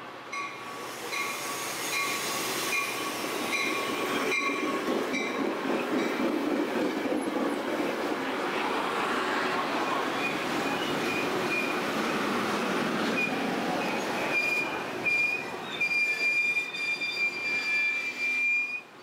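Metra commuter train rolling through the station with a high-pitched metal squeal, pulsing at first and then held as one long, loud squeal near the end, over the rumble of the passing cars. The sound cuts off abruptly just before the end.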